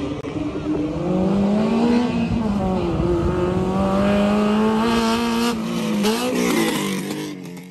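Honda Civic hatchback engine driven hard through an autocross cone course. Its engine note climbs and dips with the throttle, drops about five and a half seconds in, then briefly rises and falls again before fading.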